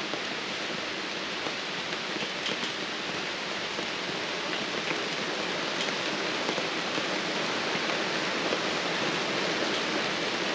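Steady rain falling on wet pavement and ground, with scattered drops ticking, slowly growing louder.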